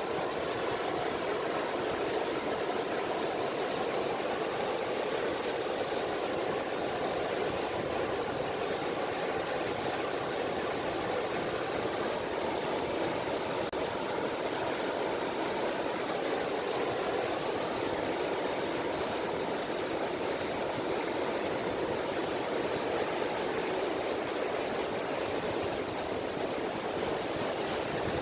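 Small, gentle waves of the Seto Inland Sea (sazanami) washing onto the shore as a steady, even wash of water noise.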